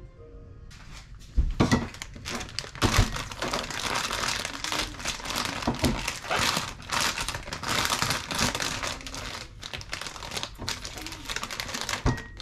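Plastic packaging being crinkled and handled, with a few knocks in between.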